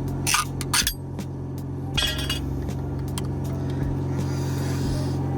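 Air freshener packaging being torn and crinkled open in a few short crackles, mostly in the first second and once more about two seconds in, over the steady low hum of a car engine idling.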